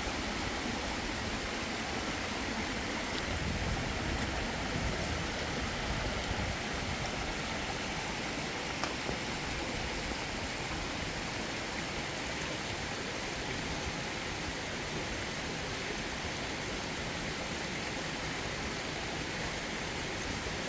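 Steady rushing of a mountain stream, with a brief low rumble about four seconds in.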